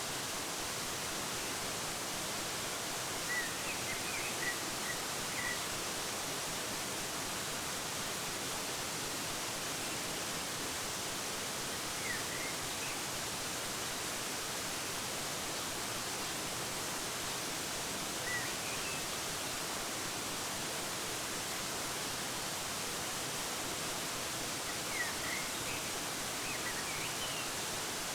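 Steady rush of a waterfall, with short bird chirps coming through a few times: a quick run of chirps a few seconds in, single calls near the middle, and another run near the end.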